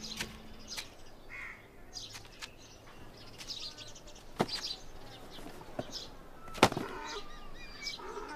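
Small birds chirping faintly in short, scattered calls, with a few sharp knocks, the loudest about two-thirds of the way through.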